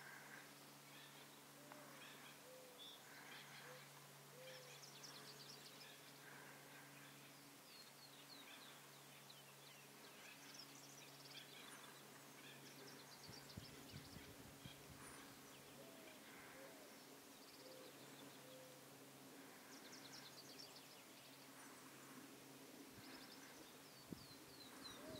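Faint, scattered bird chirps and short trills over a low steady hum.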